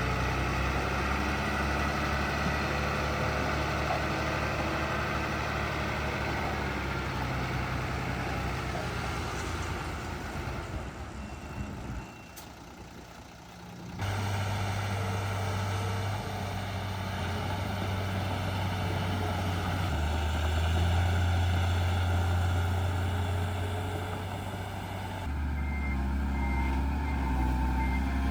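Diesel engines of dump trucks and a bulldozer running steadily, the sound dropping away for about two seconds midway and returning at a different pitch. A reversing beeper sounds in regular pulses near the end.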